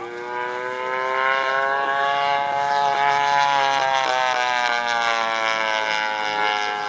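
Engine of a giant-scale P-47 model plane, a DA-85 single-cylinder two-stroke gas engine, running in flight with its propeller. It grows louder about a second in, and its pitch rises slowly for the first couple of seconds, then eases down.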